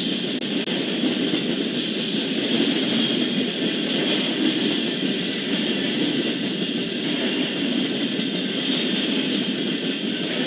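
Intermodal freight train's double-stack container cars rolling past at steady speed: a continuous rumble of steel wheels on rail with a hiss on top, no clear rhythm of wheel clicks.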